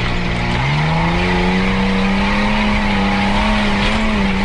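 Off-road 4x4's engine heard from inside the cabin, revving up about two-thirds of a second in and then running steadily at the higher revs.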